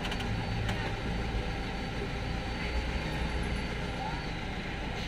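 Steady low rumble of a running vehicle, with a couple of faint clicks.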